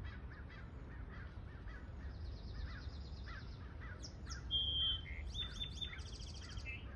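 Small birds chirping in a steady series of short calls, about two a second, with a few clear whistled calls about four to six seconds in, over a low rumble.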